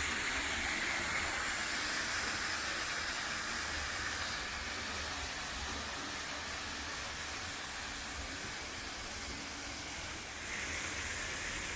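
Steady rushing hiss of water cascading down a creek waterfall, with a brief dip in level near the end.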